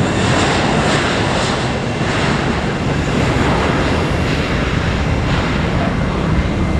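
Airbus A321 jet airliner's engines, a loud, steady roar as it passes close by.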